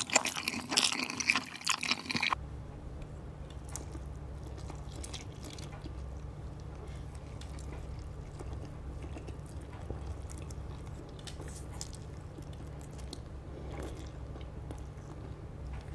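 Close-miked chewing of noodles, with loud wet mouth sounds for the first two seconds. After an abrupt cut it turns much quieter: faint scattered mouth clicks over a steady low hum.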